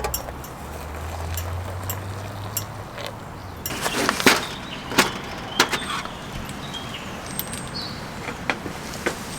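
A low rumble over the first few seconds, like a vehicle running nearby, then scattered clicks and knocks of camp cookware and utensils being handled.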